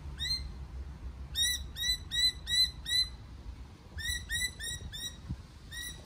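A bird calling a series of short, clear chirping notes, repeated about three a second in two runs with a pause between.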